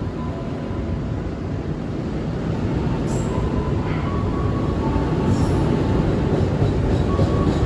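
A train rumbling through the station, its noise growing steadily louder as it approaches.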